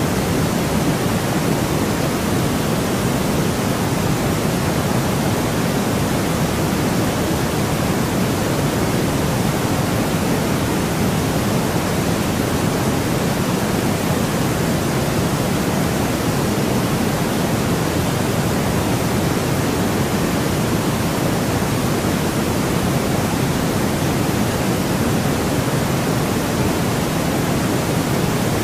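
Steady, unbroken white noise for sleep: an even rushing hiss at a constant level, weighted a little towards the low end, with no change or interruption.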